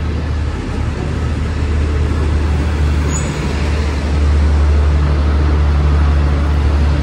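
State Railway of Thailand passenger coaches rolling fast past the platform: a loud, steady low rumble of steel wheels on rail, getting a little louder about four seconds in. A brief high squeal sounds about three seconds in.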